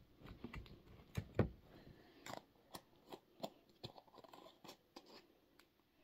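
Glow-in-the-dark slime being squished and stretched by hand, giving off faint, irregular crackles and clicks.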